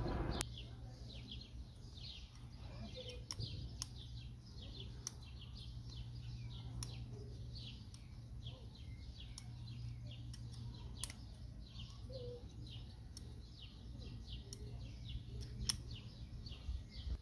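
Small birds chirping over and over, faint, above a low steady hum, with a few light clicks now and then.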